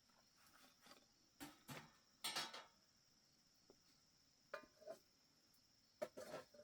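Scattered light knocks and clatters in small groups, a few seconds apart, like things being handled, over a steady faint high-pitched insect trill.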